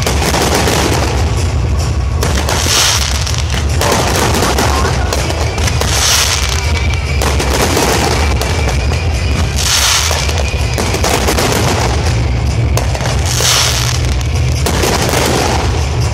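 Fireworks display: a continuous barrage of booms and crackling, with a stronger burst of crackle about every three to four seconds.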